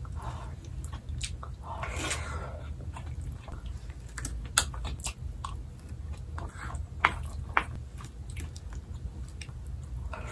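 Close-up chewing and mouth sounds of someone eating spoonfuls of a shiitake mushroom rice bowl: soft wet smacks with a few sharp clicks, the sharpest near the middle.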